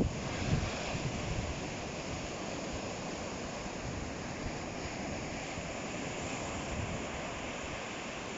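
Ocean surf washing on the shore as a steady hiss, with low wind buffeting on the microphone in the first second.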